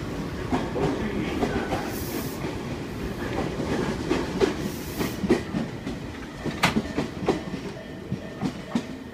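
Tobu 30000 series train pulling out at low speed, its wheels clattering over rail joints with irregular knocks and one sharp clack about six and a half seconds in; the sound eases slightly toward the end.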